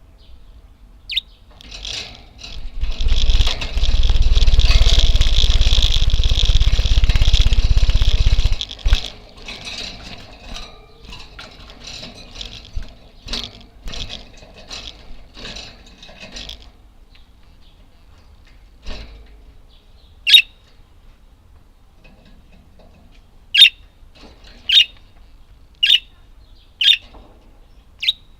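Budgerigars chirping: a loud, dense rush of noise for several seconds near the start, then scattered chirps, and in the second half single short, sharp calls about a second apart.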